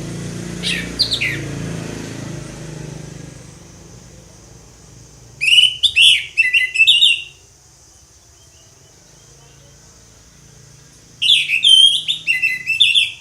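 Orange-headed thrush singing: a few short falling notes near the start, then two loud phrases of quick, varied whistled notes about five seconds apart. A low rumble fades out over the first few seconds.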